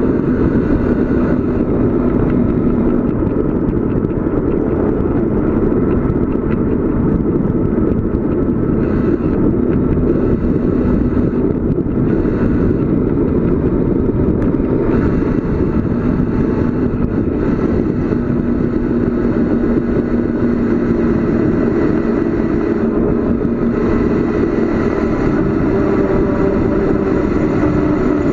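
Steady rush of wind over the microphone, with road noise, from a bicycle descending at speed.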